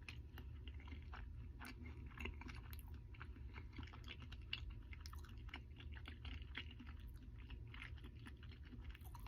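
A person chewing a McDonald's Double Big Mac close to the microphone: faint, irregular small clicks and smacks of mouth and teeth.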